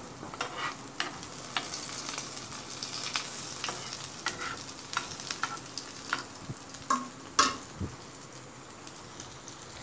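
Chicken shami kababs shallow-frying in hot oil in a pan, sizzling steadily. A spatula clicks and scrapes against the pan as they are turned, with a dozen or so sharp clicks, the loudest about seven seconds in.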